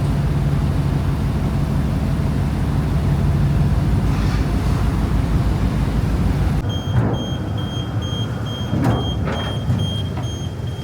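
Passenger ferry's engine droning steadily with a low throb. About two-thirds of the way through the drone cuts off abruptly and a series of short, evenly spaced high beeps follows, with a few brief noises.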